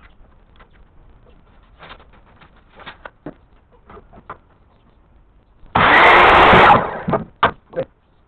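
A loud, even burst from a power tool lasting about a second, a little over halfway through, amid scattered light knocks and clicks from work on the wooden frame, with a few sharper knocks just after the burst.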